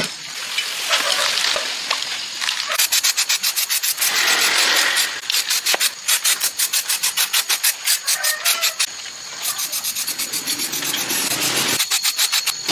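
Rapid back-and-forth abrasive strokes, about four or five a second, in a run through the middle, with steadier rubbing before and after: hand work on a workpiece, like sanding, filing or scraping.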